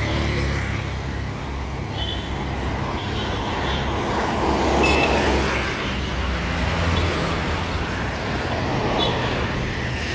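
Road traffic: motor vehicle engines running and passing, a steady low rumble with road noise that grows louder around the middle.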